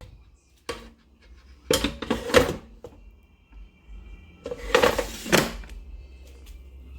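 A few knocks and clatters of household objects being handled, the loudest in bursts about two seconds and five seconds in.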